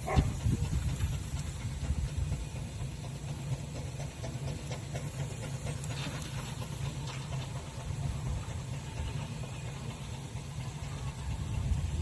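Fowler steam ploughing engine running, with a steady hiss of steam over a low rumble.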